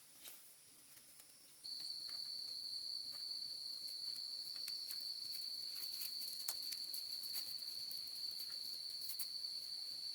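A cricket-like insect starts a steady, high-pitched trill about two seconds in and holds it without a break. A fainter, even higher insect tone runs underneath throughout, with scattered light ticks and clicks.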